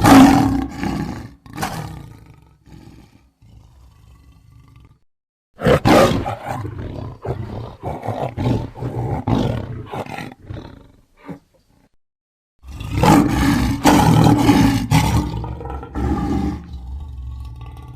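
Big-cat roaring used as a Smilodon (sabre-toothed cat) sound effect: three separate roaring bouts with silent gaps between them, one at the start, a longer one from about six seconds in, and another from about thirteen seconds in. It settles into a quieter, steady pitched sound near the end.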